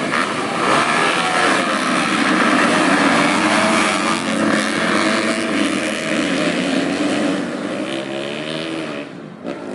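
Several racing dirt-bike engines running hard together, their notes rising and falling over one another as the riders work the throttles, easing off near the end.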